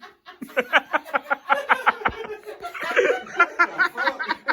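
People laughing hard: a long unbroken run of quick ha-ha laughs, several a second.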